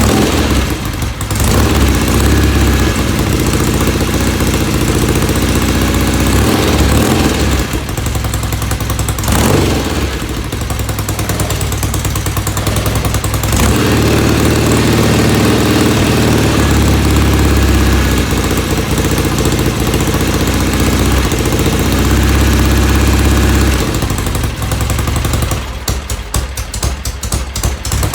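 1970 Norton Commando's air-cooled parallel-twin engine running, its speed changing a few times. Near the end the firing slows into separate beats as the engine dies.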